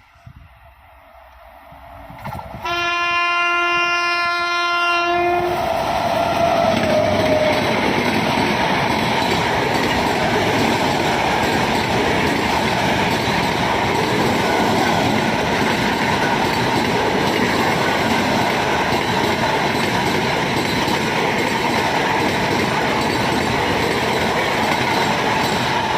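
An Indian Railways express train approaching and passing at speed. The locomotive's horn sounds one blast of about three seconds, a couple of seconds in, its pitch dropping as the engine goes by. Then the coaches rush past with a steady, loud clickety-clack.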